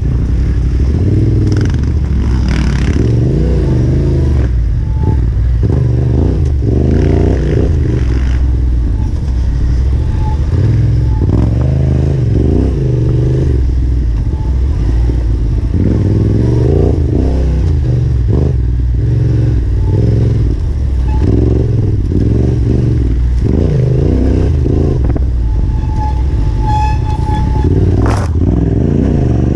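Yamaha Ténéré 700's parallel-twin engine revving up and down at low speed over rough trail, with the bike clattering. Near the end there is a short high-pitched whine, then a sharp knock.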